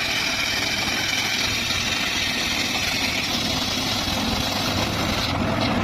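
Engine-driven circular saw running under load, the blade cutting hardwood with a steady whine that stops near the end while the engine keeps running.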